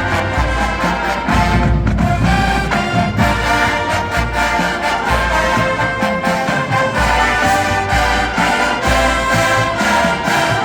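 Full marching band playing a TV theme arrangement: massed brass, trumpets and trombones, over a steady pulsing low end of tubas and drums.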